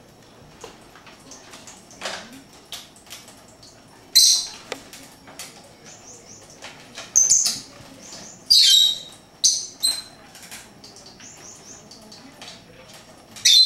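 Small pet birds chirping: loud high-pitched chirps about four seconds in, a cluster of them around seven to ten seconds, and another near the end, with softer repeated peeps and faint clicks in between.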